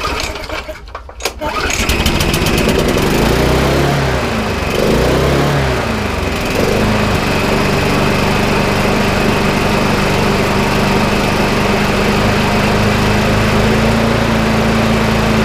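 Small lawnmower engine pull-started, catching after about a second and a half and running. Its speed rises and falls for a few seconds, then settles to a steady run on the newly fitted throttle cable.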